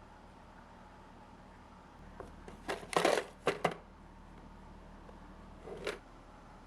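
A quick cluster of short clicks and rattles from objects being handled, then one more brief rattle a couple of seconds later, over a faint steady hum.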